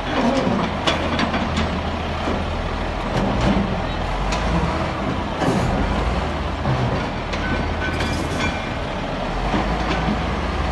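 Heavy diesel machinery running steadily at a quarry loading site, with scattered sharp knocks and clanks over the engine.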